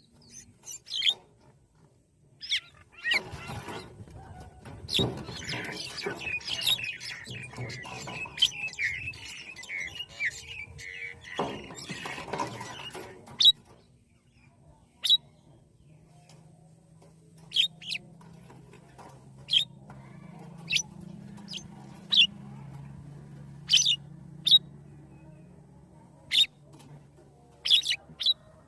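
Short, sharp bird chirps repeated every second or two. From about three to thirteen seconds in, a dense stretch of rustling and rapid chattering calls.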